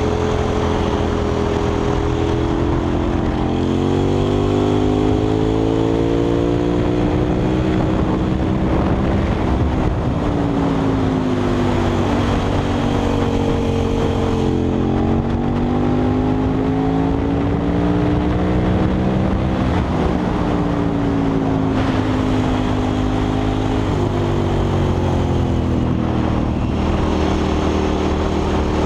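KTM 990 SMR's V-twin engine through a Leo Vince exhaust, heard from onboard, pulling hard and backing off again and again, its pitch rising and falling every few seconds, over steady wind rush.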